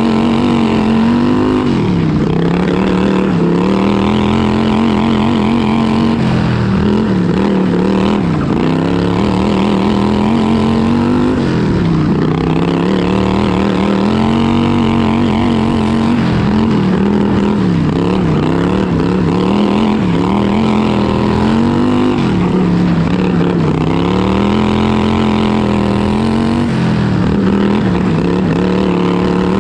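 Racing lawn tractor's modified vertical-shaft V-twin engine running hard at high revs, its pitch dropping and climbing back again every three to four seconds as it eases off and accelerates through the laps.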